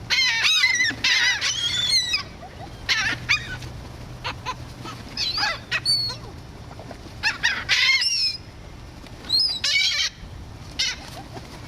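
A flock of gulls, mostly laughing gulls, calling over and over. Several birds overlap in loud bursts of short, bending, nasal calls, the busiest in the first couple of seconds.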